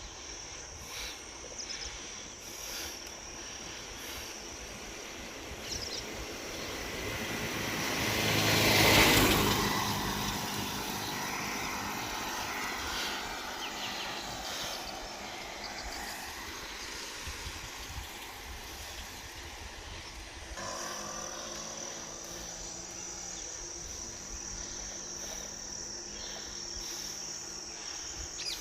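A motor vehicle passes close by, its noise building to a loud peak about nine seconds in and then fading away. Crickets keep up a steady high trill around it, strongest again in the last third.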